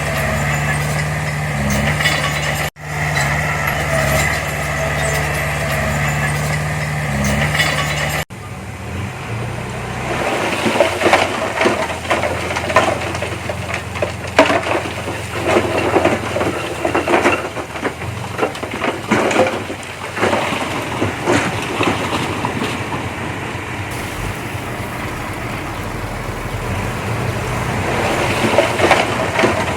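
Diesel engine of heavy earthmoving machinery running steadily. After two abrupt cuts it gives way to a busier stretch of irregular clanking and rattling, like a bulldozer's tracks and blade working soil.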